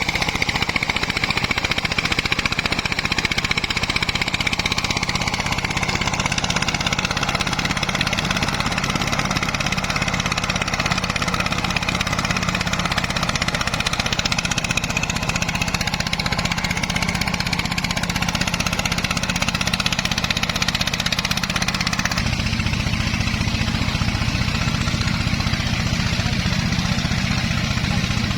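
Single-cylinder diesel engine of a công nông farm truck running steadily, its sound shifting about three quarters of the way through.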